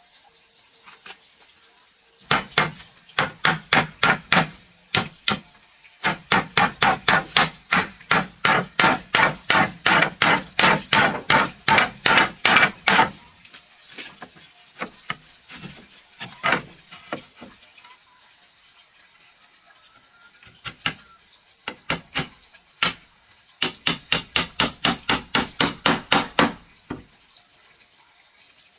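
Hammer blows on wood in quick, even runs of about three strikes a second, with pauses and scattered single blows between the runs. A steady high insect drone runs behind them.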